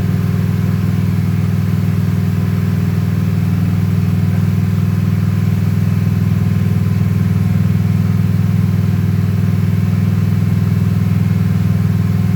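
Honda Shadow 750's V-twin engine idling steadily.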